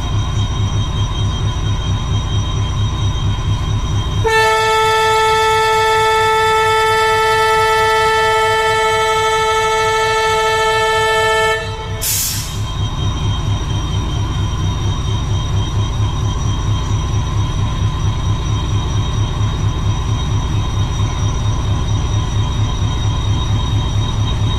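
Railway locomotive running with a steady, low rhythmic pulsing. About four seconds in, its horn sounds loudly and holds for about seven seconds, then cuts off with a short hiss of air.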